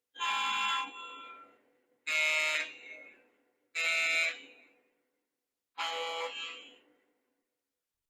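Sampled diesel air horn from the onboard sound system of a Lionel Legacy Southern E6 A-unit O-gauge model locomotive, sounding four short blasts about two seconds apart, each trailing off in an echo.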